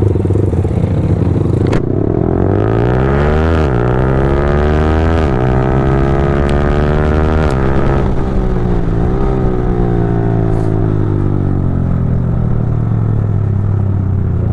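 Yamaha R15 V4M's single-cylinder engine, breathing through a Leovince full-system exhaust, accelerating hard. It climbs in pitch and drops sharply three times as it upshifts quickly through the gears, then settles into a steady cruise.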